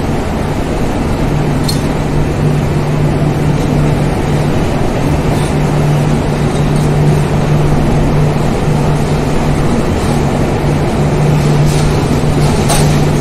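Mandovi Express passenger train running at speed, heard from on board: a loud, steady rumble of wheels on rails with a constant low hum underneath.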